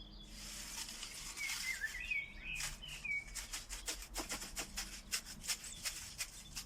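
A songbird singing a short warbling phrase of quick up-and-down notes, followed by a scatter of many sharp clicks or ticks.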